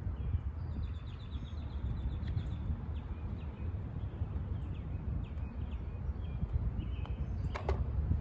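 A bird singing a run of short, high, quickly repeated chirps, with a single call falling steeply in pitch near the end, over a steady low rumble.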